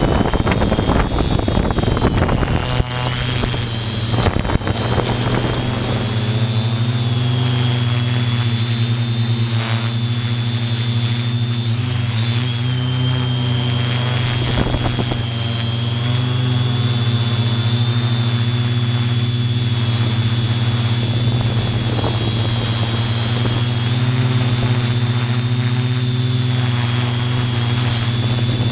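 Multirotor drone's motors and propellers running steadily in flight: a low hum with a high, slightly wavering whine above it. A rush of noise in the first few seconds.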